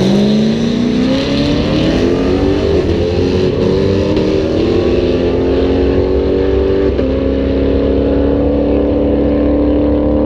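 V6 car engine revving up quickly, then held at high revs for several seconds, its pitch creeping slowly higher.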